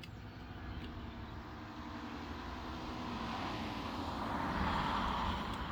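A vehicle passing by: a steady rushing noise that grows louder, is loudest about four to five seconds in, then begins to fade.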